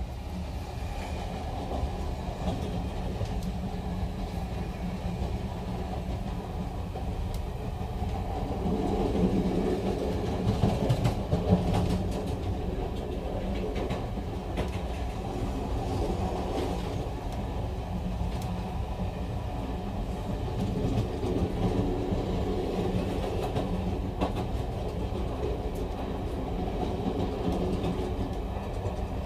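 Train wheels clattering over the rail joints, with a steady low rumble and scattered clicks. It is a little louder from about nine to twelve seconds in.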